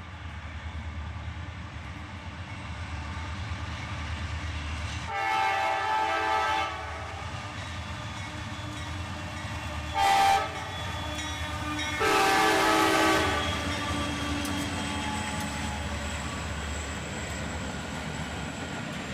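Locomotive horn on a freight train led by a GE AC44CW diesel, sounding three blasts: a long one about five seconds in, a short one about ten seconds in, and another long one about twelve seconds in. Under it runs the steady low rumble of the locomotives' diesel engines.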